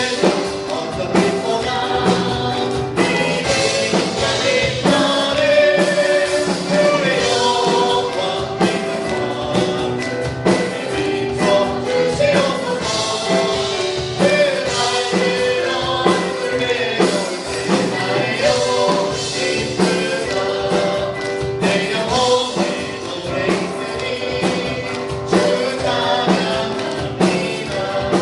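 Worship music: a group of voices singing a praise song over band accompaniment with a steady beat.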